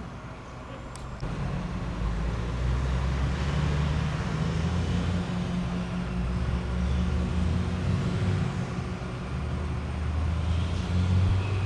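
Heavy diesel truck engine running under load, a low drone that grows louder about a second in and swells again near the end.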